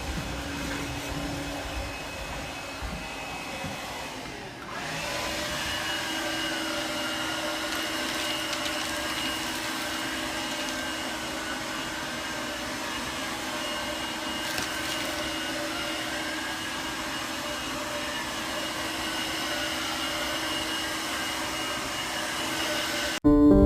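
Cordless stick vacuum cleaner running steadily on carpet, a continuous motor whine over airflow noise. About four and a half seconds in the sound dips briefly, then the whine carries on steady.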